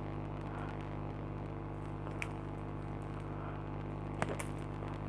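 Steady low electrical hum, with a few small clicks and taps from small parts being handled during the repair.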